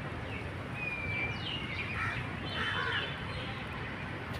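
Several birds calling in short downward-sliding calls, with one held whistle about a second in, over steady low background noise.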